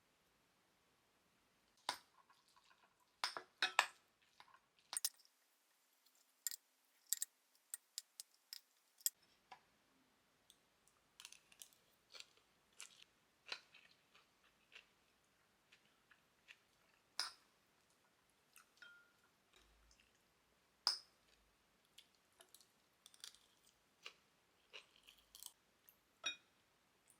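Faint, irregular clicks, taps and clinks of dishes and utensils being handled, with a few sharper knocks scattered through.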